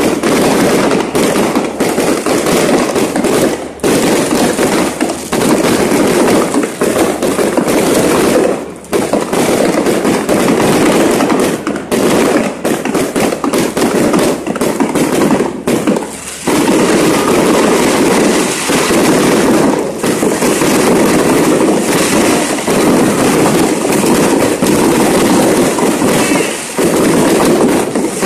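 Fireworks going off in a dense, continuous crackle of bangs, with a few brief lulls.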